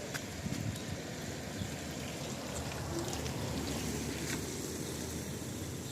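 Steady rain falling, an even hiss with a low rumble underneath and a few scattered light ticks.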